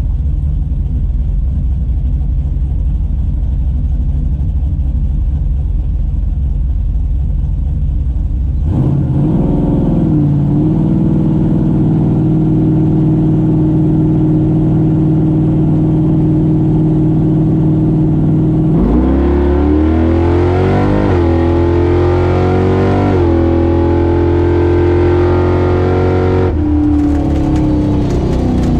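Big-block Mopar V8 of a Barracuda drag car: a low, rough rumble, then revs held at a steady pitch from about nine seconds in. About nineteen seconds in it goes to full throttle down the track, the pitch climbing, stepping at a gear change a few seconds later, and falling away as the throttle closes near the end.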